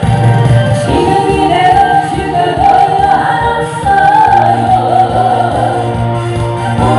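A singer performing a Korean trot song with band accompaniment: a wavering sung melody over a steady bass line.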